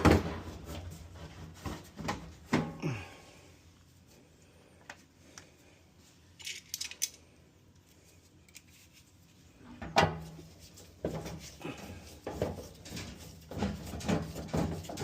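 Irregular knocks, clinks and scrapes of metal dryer parts being handled during reassembly, with a sharp knock about ten seconds in and a quieter stretch before it.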